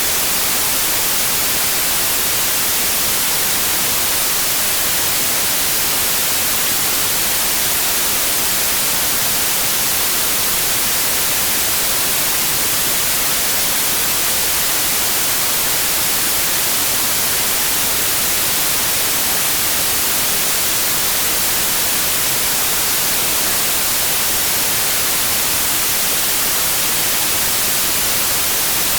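Steady, loud white noise: an even, unchanging hiss across the whole range, brightest in the highs.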